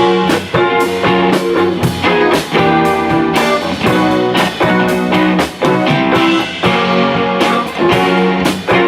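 Live rock band playing an instrumental passage, with guitar to the fore and drums keeping a steady beat.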